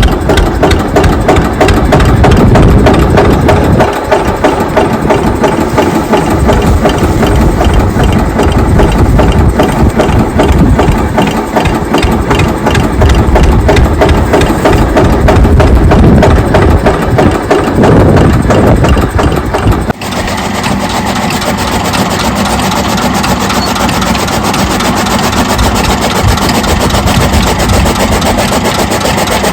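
An engine running steadily at idle, with an even, fast beat. About two-thirds of the way through, the sound changes abruptly to a slightly quieter, smoother run.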